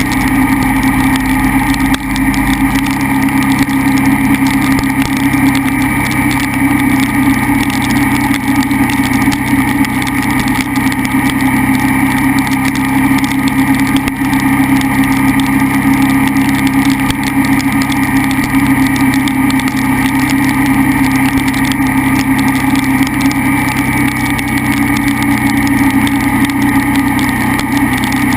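KTM 990 SMR's V-twin engine running at a steady, nearly unchanging speed, over a haze of noise.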